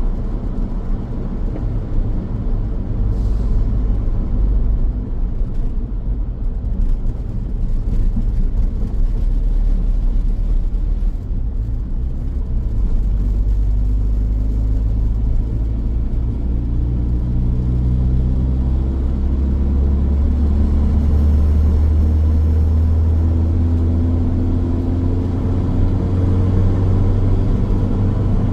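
Car driving on a road: a steady low rumble of engine and tyres, with the engine note rising slowly through the second half.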